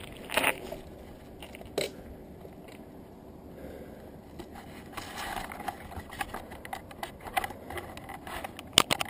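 Bicycle ride heard from a GoPro camera on the bike: a low rumble of wind and tyres with scattered knocks and rattles, busier in the second half, the loudest a sharp knock near the end.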